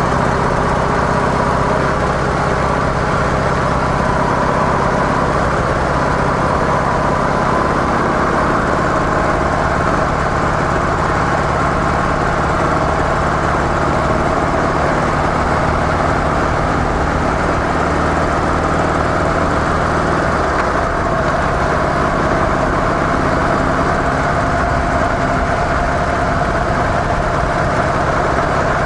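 Harley-Davidson CVO Softail Deluxe's V-twin engine running steadily through stock mufflers, with a change in the engine note about 21 seconds in.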